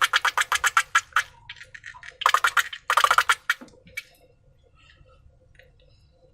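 Slime squished and worked by hand: a fast run of wet clicks that fades out about a second in, then two louder sticky crackling bursts, then faint scattered ticks.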